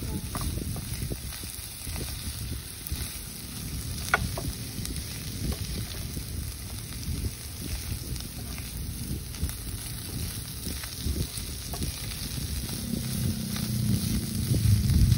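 Sliced shallots and greens sizzling in a non-stick pan, stirred and scraped with a silicone spatula, with small scraping ticks throughout and one sharper tap about four seconds in. A low rumble grows louder near the end.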